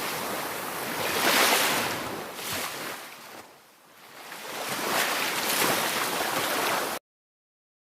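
A rushing noise without any tone that swells and fades, dropping almost to nothing about halfway through before rising again, then cutting off abruptly near the end.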